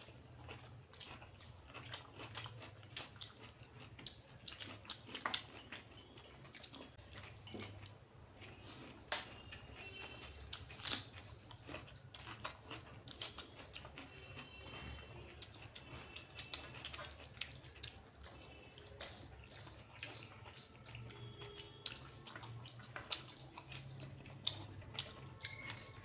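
Close-miked sounds of a person eating: chewing with wet mouth noises, and many irregular short clicks and smacks.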